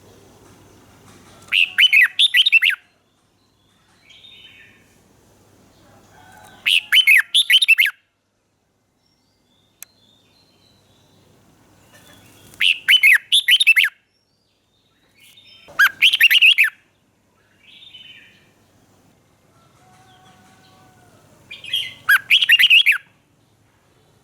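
Red-whiskered bulbul singing: five short, loud song phrases of about a second each, a few seconds apart, with softer calls in between.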